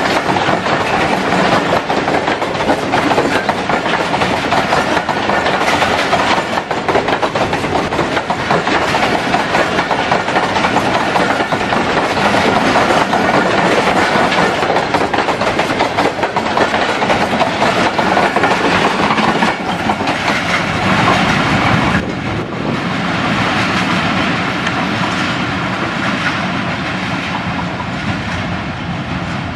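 Passenger coaches of an express train passing close by at speed: a loud, steady rush of wheels running on the rails. About 22 seconds in the sound drops suddenly to a quieter, more distant running noise as the end of the train moves away.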